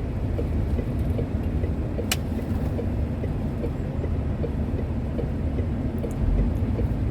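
Truck engine running low and steady, heard inside the cab while the truck manoeuvres, with a faint regular ticking over it and one sharp click about two seconds in.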